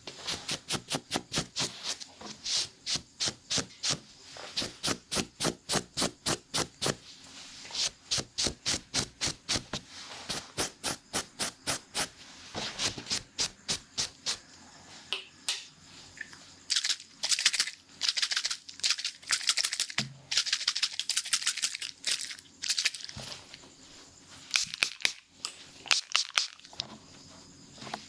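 Hair-cutting scissors snipping in quick succession, about four snips a second. Later the snips give way to longer, irregular scratchy strokes.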